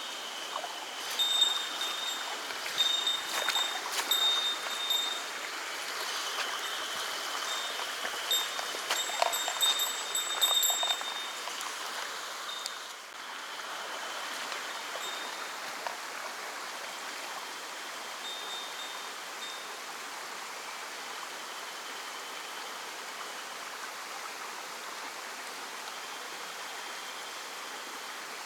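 Small mountain stream flowing steadily over rocks. Over roughly the first twelve seconds, high chime-like ringing tones come and go above the water sound.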